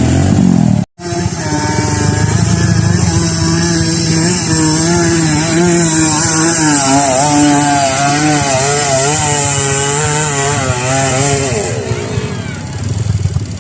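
Small-displacement trail motorcycle engine running hard at high revs, its pitch wavering up and down as the throttle is worked.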